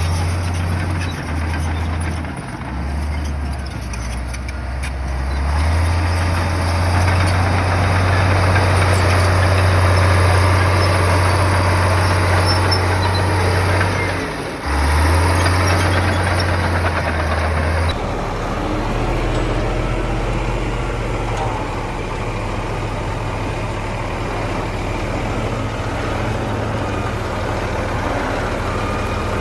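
Diesel engines of heavy earthmoving machines running, a steady low drone with a few brief dips. The sound changes abruptly about two-thirds of the way through.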